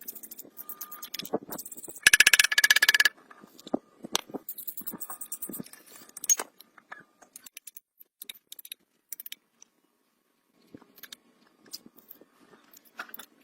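Metal tools and parts clinking and scraping during workshop work on a car. About two seconds in there is a loud burst of rapid, evenly spaced clicking lasting about a second, then scattered clinks that thin out toward the end.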